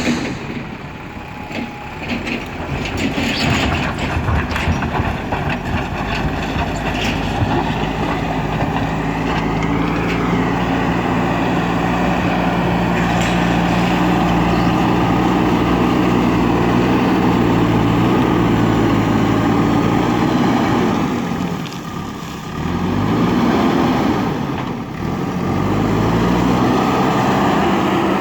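JCB backhoe loader's diesel engine working under load with a steady drone. About three quarters of the way through, the engine note drops, then climbs back up and holds. Rattling and knocks are heard in the first few seconds.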